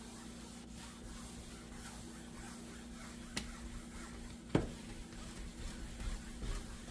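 Faint rubbing of an applicator pad on a glass cooktop over a steady hum, with a light tap about three and a half seconds in and a sharper knock about a second later.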